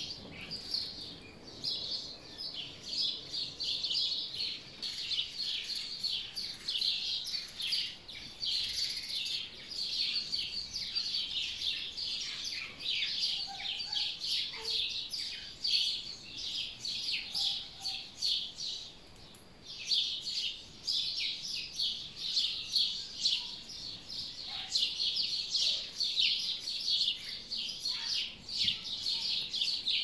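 Small songbirds singing and chirping, a dense run of quick high notes that thins out briefly about two-thirds of the way through.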